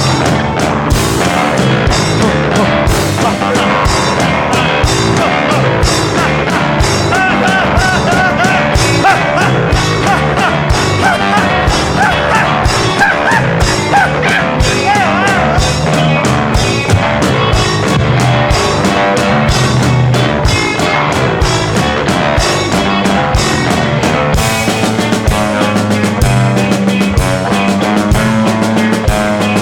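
Rock band playing an instrumental passage with drum kit and guitar. A wavering lead melody rises over the band about a quarter of the way in and fades back out about halfway through.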